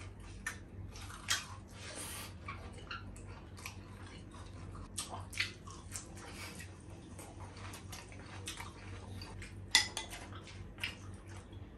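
Close chewing and mouth sounds of people eating fried chicken nuggets and noodle soup: scattered soft smacks and clicks over a steady low hum. Near the end a plastic ladle knocks and scrapes in a glass soup bowl, the sharpest sound about ten seconds in.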